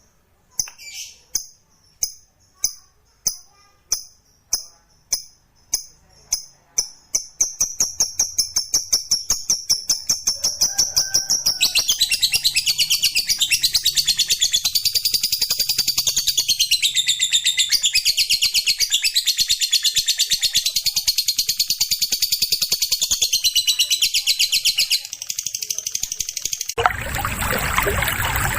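Lovebird 'ngekek': high spaced chirps that speed up over about seven seconds into a long, fast, unbroken chattering trill lasting about twenty seconds. Near the end it cuts off abruptly to a steady rushing noise like running water.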